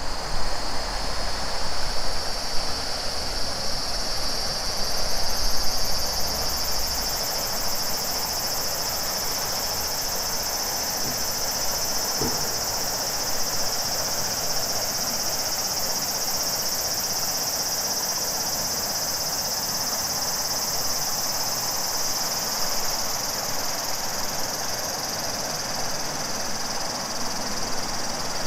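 Cicadas singing in a steady, high-pitched chorus over the rush of a large river's flowing water. A low rumble sits under it for the first several seconds.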